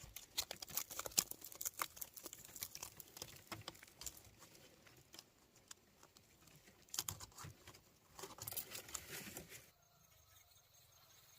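Irregular light taps, clicks and rustles, like hands handling small, dry materials. They thin out in the middle, come back in a second cluster, then stop abruptly near the end, leaving only faint, steady high-pitched tones.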